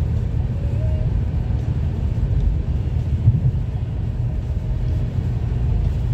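Steady low rumble of road vehicle noise, with a faint brief tone about a second in.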